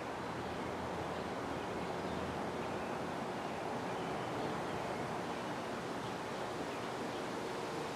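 Wind blowing steadily, an even rushing noise with no breaks.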